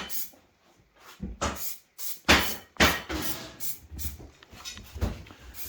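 A few sharp, separate knocks and clatters, some close together, as something hard is handled or struck.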